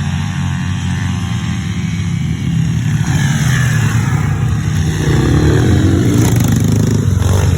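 Small motorcycle engine running hard and revving, with its pitch gliding up and down. It grows louder about a third of the way in and again past the middle.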